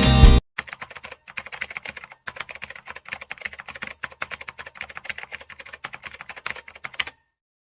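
A run of quick, irregular light clicks, several a second, cutting off suddenly about seven seconds in.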